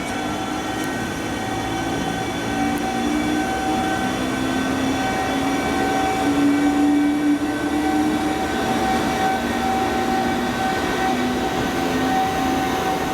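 An EF210-300 electric locomotive pulling away with a freight train: its inverter-driven traction motors whine in several steady tones, while lower tones shift in pitch, over a running rumble that grows slowly louder.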